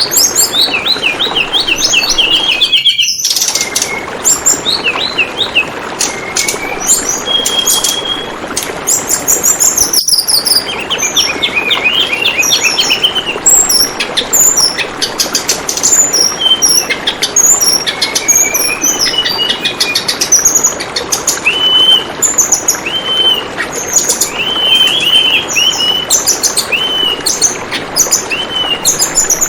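Tledekan bambu birds chirping and singing in quick, overlapping phrases over the steady babble of running water. The sound briefly cuts out about three seconds in, and again about ten seconds in.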